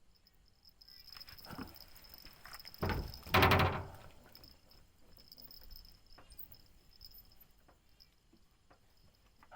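A steady, high-pitched insect trill, with a knock about three seconds in and a louder knock and scrape right after it close to the microphone.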